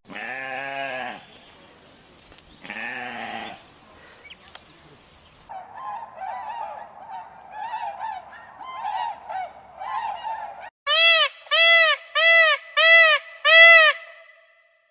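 A run of different animal calls. Two drawn-out pitched calls in the first few seconds, then several seconds of warbling chirps, then five loud, evenly spaced calls of about half a second each.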